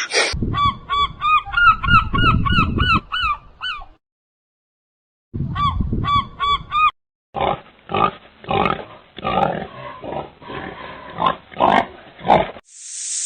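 Animal calls: a quick run of short, repeated, arched calls, broken by a brief pause and then resuming. In the second half comes a harsher run of separate calls.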